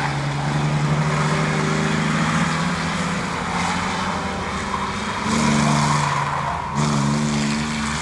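Racing trucks' engines running hard around a speedway oval, with steady engine tones that swell as trucks pass: one pass a little after five seconds in and a louder one starting near seven seconds.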